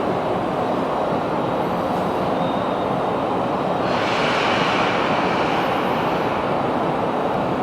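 Commuter train running, heard from inside a carriage: a steady rumble, with a brighter hiss joining about four seconds in.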